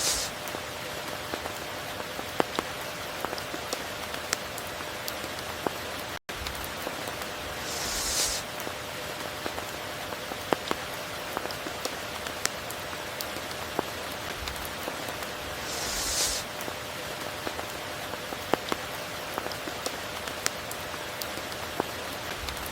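Steady tropical rain falling, with scattered sharp drops ticking close by and a brief high hissing swell about every eight seconds. The sound cuts out for an instant about six seconds in.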